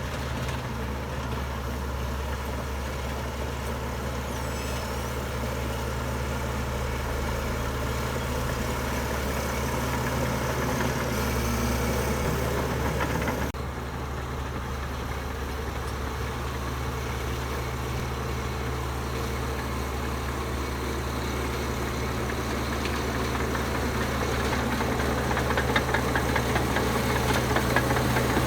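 Heavy diesel engine of earthmoving machinery running steadily with a low rumble, growing louder toward the end.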